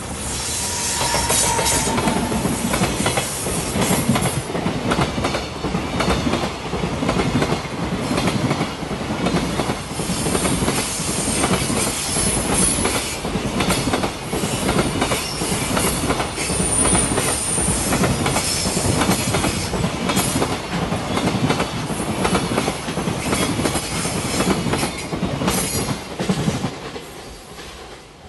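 JR Freight EF210 electric locomotive and a long rake of container wagons passing close by. The wheels rumble and give a steady clickety-clack over the rail joints, loud from the first couple of seconds and dying away near the end. A thin, high wheel squeal cuts in briefly a couple of times midway.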